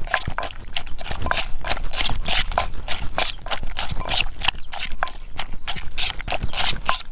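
A pestle pounding in a mortar with a steady run of sharp knocks, about two or three a second, crushing the seasoning for a spicy salad.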